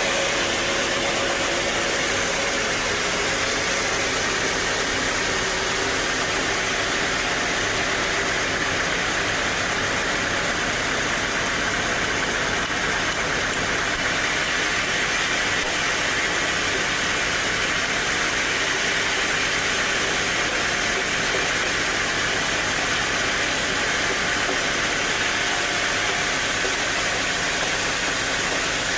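Sawmill running steadily: a continuous, even mechanical noise with no breaks or changes in level.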